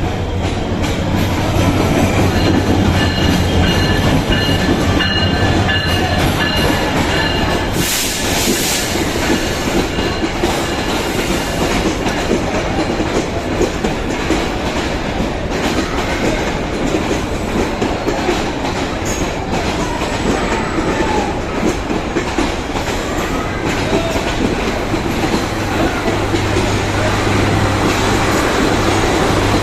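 Intercity passenger train rolling through a station, its wheels clattering rhythmically over rail joints under a steady rumble. A low engine drone from the locomotive is heard at the start and again near the end. Faint wheel squeal comes in the first few seconds, and a short hiss about eight seconds in.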